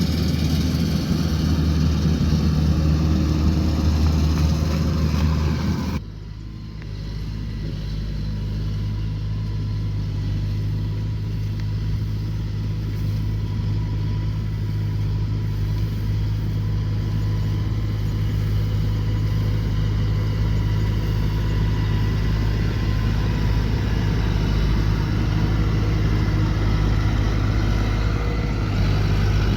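Engine of a rice combine harvester running steadily with a low, even drone. About six seconds in the sound changes abruptly, dropping in level and losing its high hiss, then settles back into a steady run.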